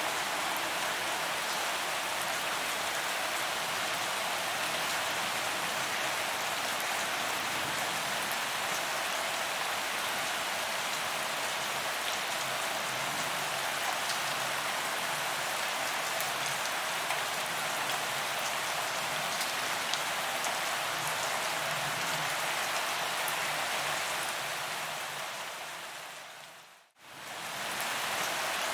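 Steady rain falling on paved pavement, an even hiss with fine drop ticks. Near the end it fades away to almost nothing and comes back within about a second.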